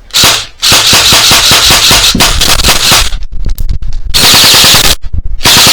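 Airsoft guns firing on full auto: a long run of rapid shots for about two seconds, then two shorter, louder bursts near the end.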